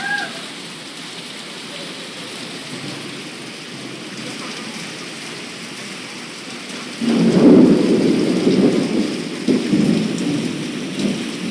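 Steady heavy rain falling. About seven seconds in, a loud peal of thunder breaks in suddenly and rumbles for several seconds, rolling again before it fades.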